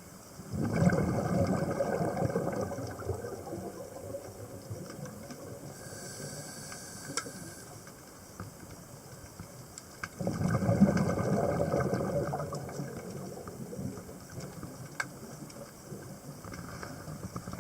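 Scuba diver's regulator underwater: exhaled bubbles burble in two bursts of about three seconds each, one just after the start and one about ten seconds in, with a faint hiss of an inhalation between them.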